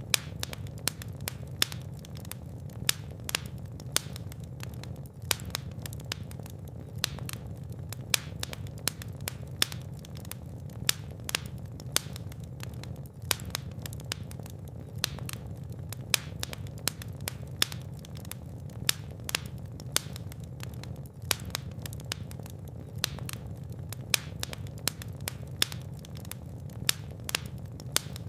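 Fire in a fireplace crackling and popping, with many sharp irregular pops, several a second, over a steady low rumble of the flames.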